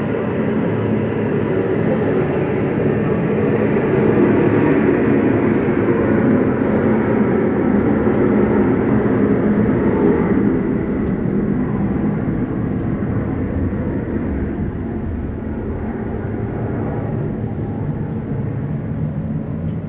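Jet airliner's engines passing close by, the noise swelling over the first few seconds and then slowly fading away.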